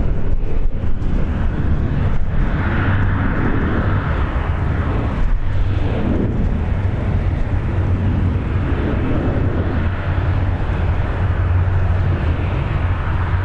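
Jet airliner engines, a loud steady rumble with a slowly swelling and fading hiss above it.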